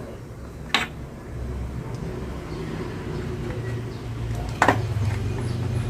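Two sharp knocks, about four seconds apart, from the plastic parts of an exhaust fan being handled during reassembly, over a steady low hum.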